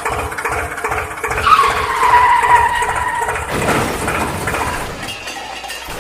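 A vehicle engine running with rapid low pulses. A high, squeal-like tone like a tyre skid sets in about a second and a half in and slides slowly down before fading after about two seconds.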